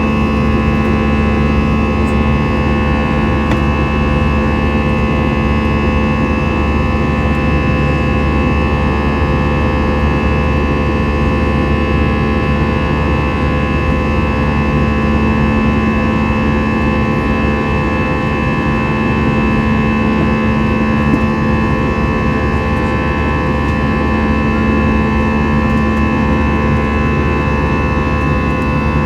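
Airbus A321 airliner's jet engines running steadily, heard inside the cabin as an even rushing drone with a steady low hum and whine.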